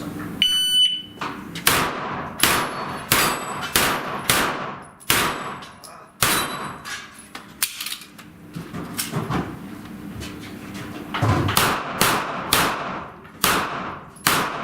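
A shot timer's start beep, then about twenty rapid pistol-calibre gunshots in two strings, with steel targets ringing when hit. There is a lull of a few seconds between the two strings.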